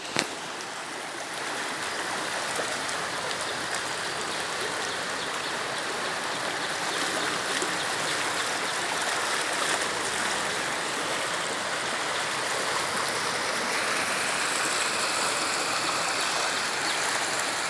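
Floodwater rushing past in a strong current, a steady, unbroken rush of water.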